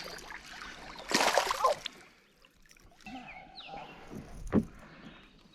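Water splashing beside a canoe: a short splash about a second in, then quieter sloshing and a single knock.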